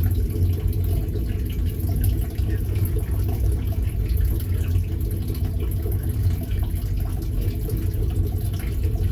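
Freight cars of a Great Lakes Central train rolling past on the rails: a steady low rumble of the wheels, with faint scattered clicks.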